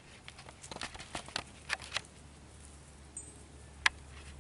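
Dogs' paws pattering and scuffing on the ground in a quick, irregular run of light taps over the first two seconds, then one sharp click near the end.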